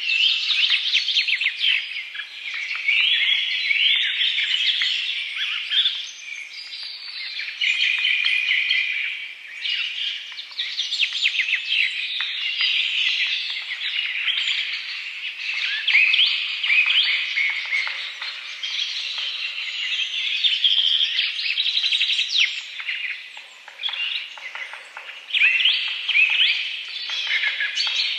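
A chorus of small birds chirping and trilling without a break, many calls overlapping.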